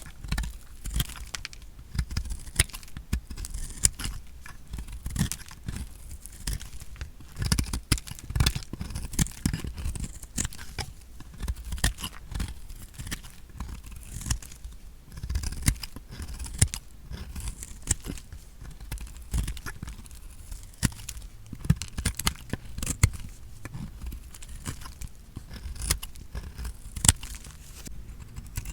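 Blade cutting through dry bar soap: an irregular run of crisp crunches and scraping strokes.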